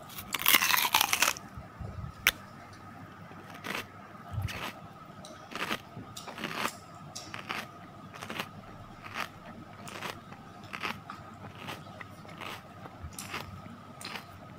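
Giant donut being bitten into and chewed close by: a loud crunchy bite about a second long near the start, then short soft chewing and mouth sounds about once a second.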